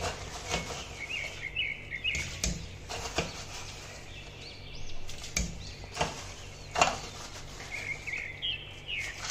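A small bird chirping in two short runs of quick notes, with scattered sharp clicks and taps and a low steady hum underneath.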